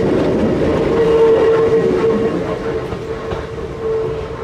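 Hakone Tozan Railway electric train running past, with a steady tone over the rumble of the wheels on the track. The sound eases down after about two seconds as the train moves off.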